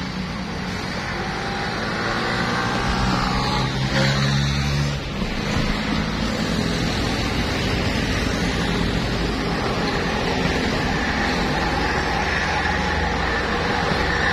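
Heavy truck engine running under load, with tyre and road noise; the engine note changes about five seconds in.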